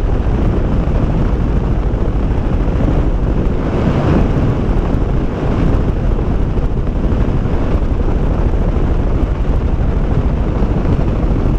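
Heavy wind rushing over the helmet microphone of a motorcycle riding at road speed, with the engine running steadily underneath.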